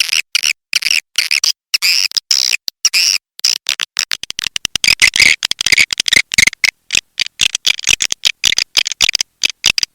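Swiftlet calling recording: rapid, chopped twittering chirps and clicks of edible-nest swiftlets, packed closer together from about four seconds in. It is a lure call, played to draw swiftlets into a swiftlet house to roost and nest.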